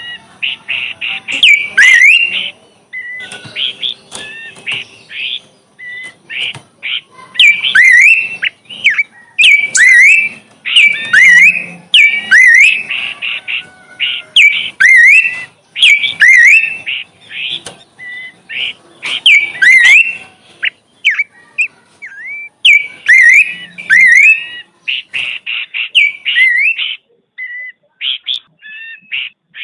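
A songbird singing loud, repeated phrases of rapid high chirps and swooping whistled notes, with short pauses between phrases.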